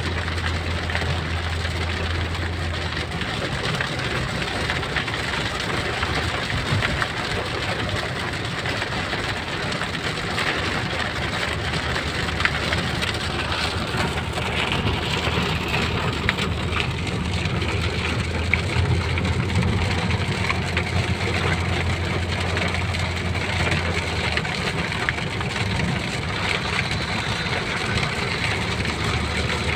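Steady engine and road noise of a car driving, heard from inside the cabin, with a low engine drone that fades about three seconds in and comes back for a stretch later on.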